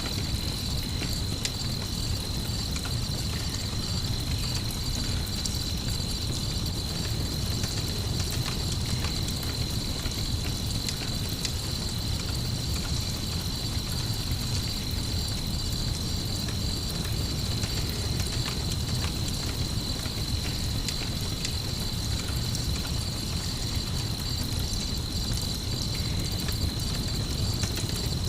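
Night ambience of crickets trilling on one steady high tone, layered with a campfire's scattered crackles and a low steady rumble.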